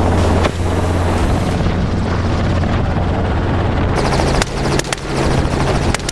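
Helicopter running in flight, a steady low rotor drone with engine whine, its pitch shifting slightly higher about four seconds in, with wind noise on the microphone.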